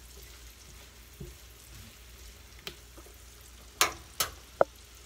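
Red onions frying in butter in a skillet, a faint steady sizzle, stirred with a spatula. A few sharp clicks come near the end, two of them louder than the sizzle.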